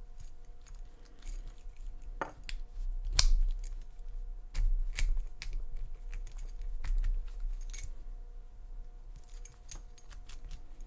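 Irregular metallic clicks and clinks of a Lane Security padlock being handled and worked at with tools, with a few dull knocks, as its core is tried for removal with the retaining screw out; the core stays stuck.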